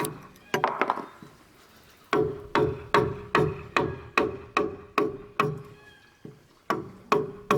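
A tool striking wood or bamboo over and over, about two and a half blows a second, each with a short ring. The blows pause for about a second near the start, then go on steadily.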